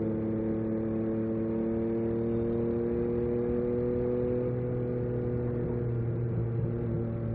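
Yamaha MT-09 SP's three-cylinder engine through an Akrapovic exhaust, running steadily at low revs, its pitch rising slightly and then easing back.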